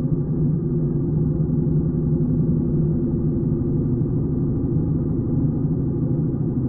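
Flat-twin boxer engine of a 1941 BMW R75 motorcycle running steadily under way, a dull, even drone with little treble.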